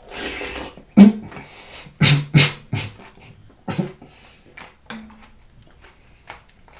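Close-miked eating of a spoonful of fruit and ice in coconut water: a slurp at the start, then several sharp crunching bites with chewing between them.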